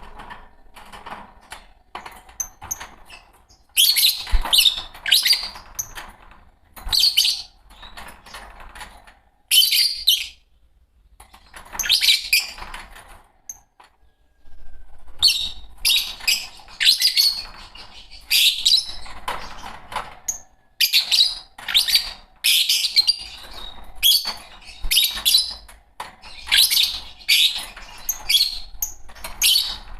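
A pair of Fischer's lovebirds chirping: rapid, shrill chirps in bursts, with short pauses between them.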